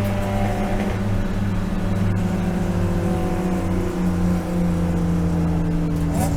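BMW E36 M3 race car's inline-six engine running hard on track, its pitch sliding slowly lower, with a brief dip about two-thirds of the way through and a quick rise near the end.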